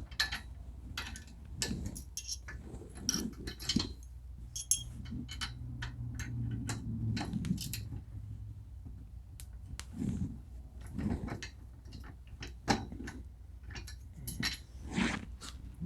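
Wrenches and bolt hardware being handled, with a string of irregular sharp metal clicks and clinks. A low hum is heard for a few seconds midway.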